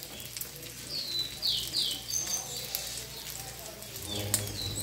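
A small bird chirping, short high notes that slide downward, several in quick succession about a second in and a couple more near the end, over the faint sizzle of an omelette frying in a nonstick pan on a gas burner.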